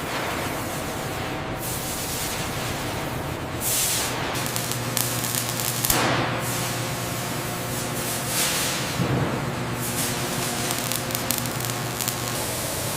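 Industrial noise: a steady hiss with a faint hum, and louder rushes of spraying hiss every few seconds.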